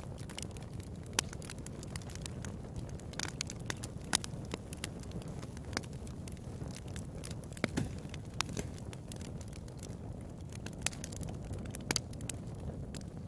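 Wood fire crackling in a fireplace: a steady low rumble of burning with irregular sharp pops, a few louder snaps standing out.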